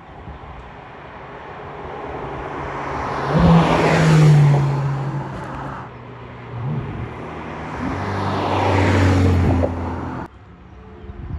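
Two Ferraris driving past one after the other, their engines loudest about four seconds in and again about nine seconds in, the engine note dropping as each goes by. The sound cuts off suddenly near the end.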